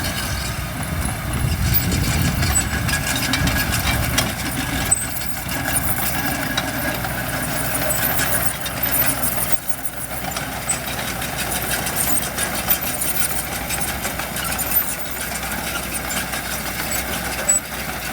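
Diesel engines of heavy construction machinery running steadily, the low engine sound heaviest in the first few seconds, with a few short knocks.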